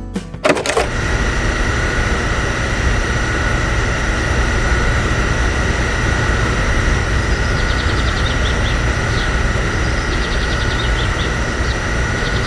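A small electric motor running steadily with a constant high whine over a low rumble, after a short knock about half a second in; faint rapid ticking joins in the second half.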